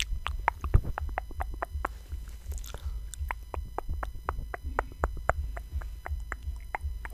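Close-miked ASMR trigger sounds: a run of sharp, quick clicks, about four or five a second and uneven in strength, over a steady low rumble.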